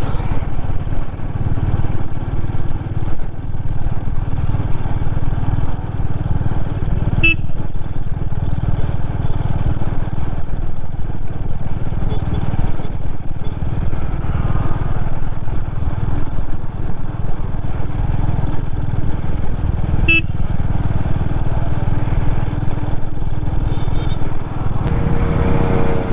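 Royal Enfield Classic 350 single-cylinder motorcycle cruising, its engine and the riding wind making a steady low rumble. Two short clicks stand out, one about a quarter of the way in and one near three quarters.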